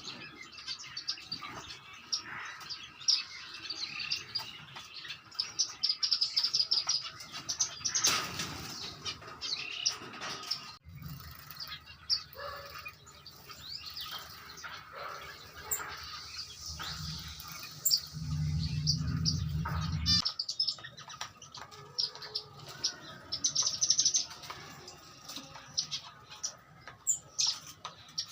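A mixed aviary of small exotic finches (star, owl, cherry and parrot finches) chirping and calling in many quick, high notes, with bursts of wing flutter. A low rumble runs underneath through the middle and cuts off suddenly about two-thirds of the way in.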